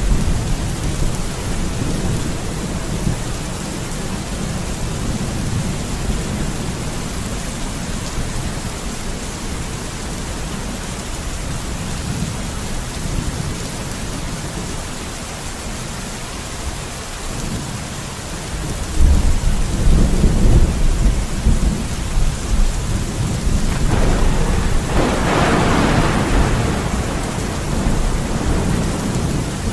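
Steady heavy rain with thunder. A low rumble rolls near the start. About two-thirds of the way in, a louder rumble builds into a sharper, brighter peal that then rolls on under the rain.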